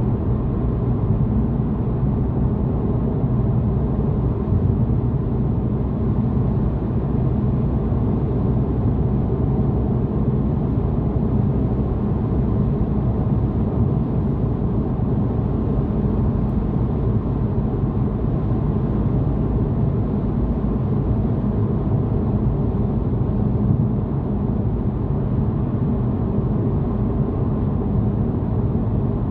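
Steady road and engine noise inside a moving car's cabin: a low, even rumble of tyres and engine while driving.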